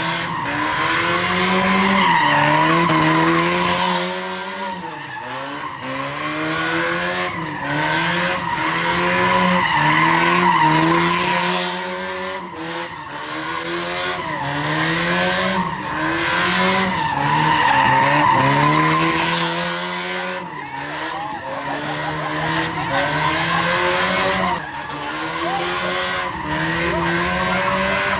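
A car doing donuts: its engine revs up and falls back again and again, roughly every two seconds, while its tires squeal.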